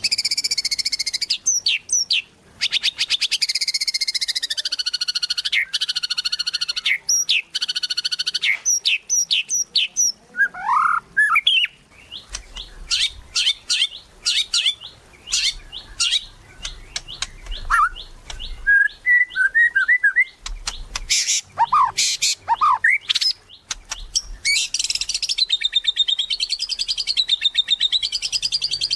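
White-rumped shama (murai batu) singing in full song: fast buzzy trills and rattles mixed with sharp whistled notes and a few rising and falling whistles, ending in a long rapid trill.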